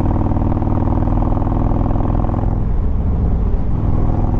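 Harley-Davidson Road Glide Ultra's Twin Cam 103 V-twin running under throttle on the move, heard from the rider's seat. About two and a half seconds in the note breaks up and then settles lower.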